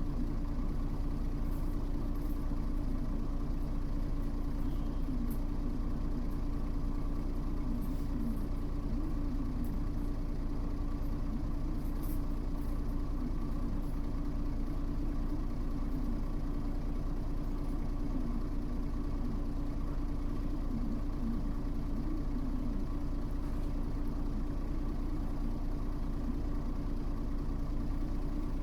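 Mitsubishi Fuso U-MK618J route bus engine running at a steady, unchanging level, heard from on board, with no revving or gear changes.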